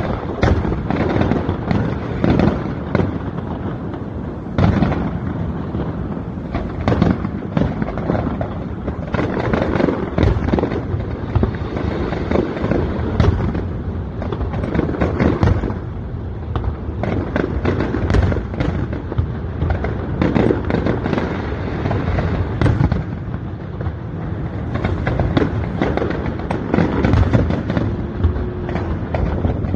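Aerial fireworks display: a dense, unbroken run of shell bursts, bangs and crackles.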